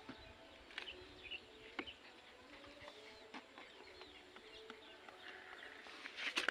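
Faint outdoor ambience with distant bird calls, short chirps and thin wavering tones, broken by a few soft clicks.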